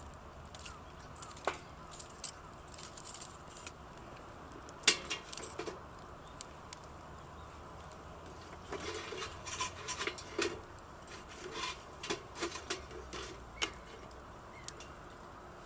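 Light clicks and clatter, as of camping gear being handled: a sharp click about five seconds in, then a busier run of small knocks and clinks from about nine to fourteen seconds.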